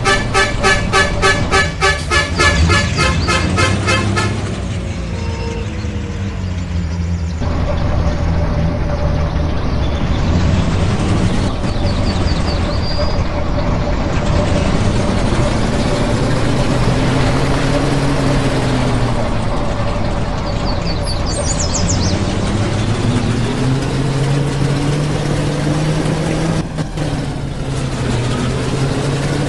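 Truck engine running under way, its pitch slowly rising and falling as the engine speed changes. In the first four seconds a fast pulsing, repeating tone sounds over it.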